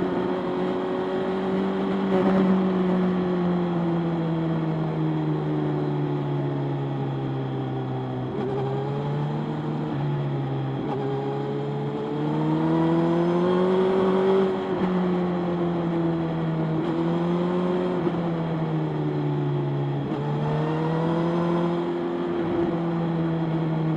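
Motorcycle engine running while riding. Its pitch sinks slowly over the first several seconds, then rises around the middle and eases off and picks up again a few times near the end.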